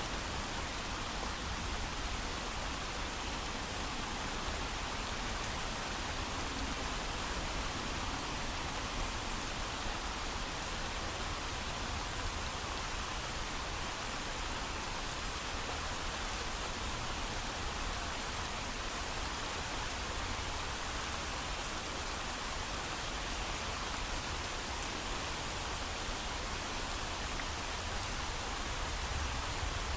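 Steady, heavy rain falling without thunder: an even, unbroken hiss.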